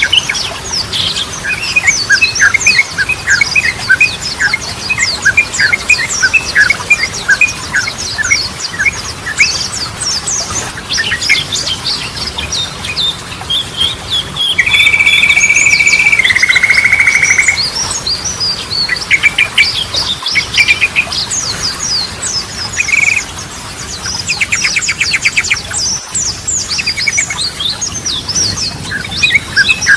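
Yellow-vented bulbul (trucukan) song: rapid chattering chirps that run on without pause, with a long flat whistled note near the middle that steps down to a lower pitch after about a second and a half.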